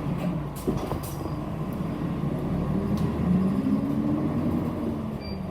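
City bus heard from inside while under way: the diesel engine drones with road noise, and its note rises about three seconds in as the bus pulls. A couple of light knocks from the cabin come through.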